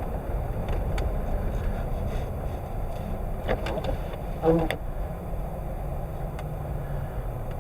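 Road noise heard from inside a car cabin while driving: a steady low rumble of the engine and tyres, with a few faint clicks and a brief higher-pitched squeak about four and a half seconds in.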